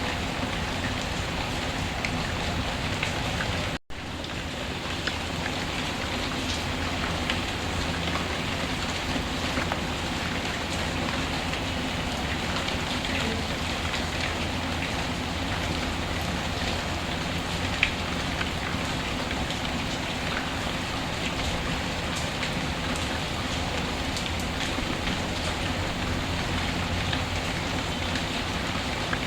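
Steady rain with a wood fire crackling, scattered small pops over the even hiss of the rain. The sound cuts out for a split second about four seconds in, a seam in the loop.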